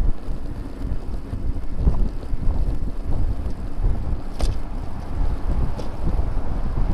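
Wind buffeting the microphone of a bicycle-mounted camera while riding, a low rumble that rises and falls. A sharp click comes about four and a half seconds in, and a fainter one a second or so later.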